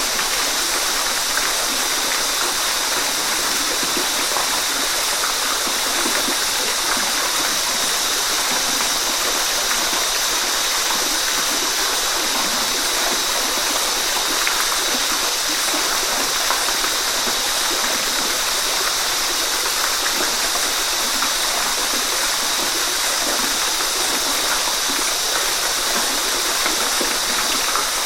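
Waterfall: a steady, unbroken rush of falling water, a constant hiss weighted toward the high end.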